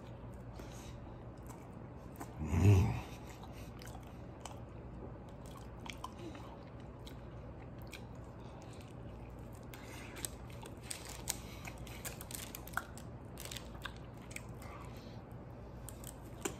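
A man biting into and chewing a soft 8-layer burrito with his mouth close to the microphone: faint, scattered wet clicks and smacks, busier in the second half. About two and a half seconds in there is one short, loud, low thump or murmur.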